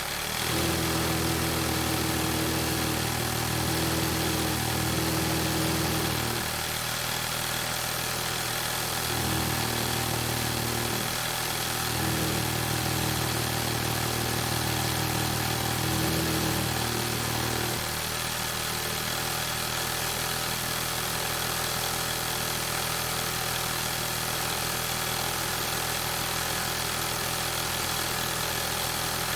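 Industrial sewing machine running, stitching in long spells that rise and fall in pitch, then settling to a steadier, slightly quieter run about two-thirds of the way through.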